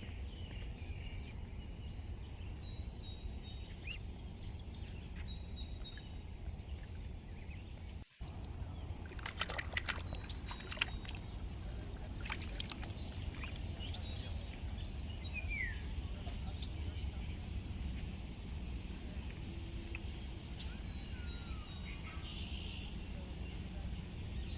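Ducklings peeping in short high chirps, some falling in pitch, over a steady low rumble, with a burst of small splashes and clicks of water about ten seconds in.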